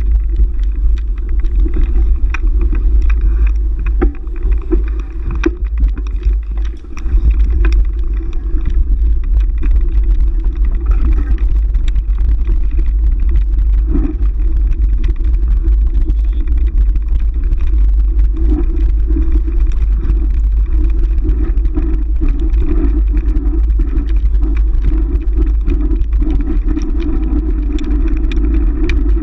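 Heavy, steady wind rumble on the microphone with road noise while riding.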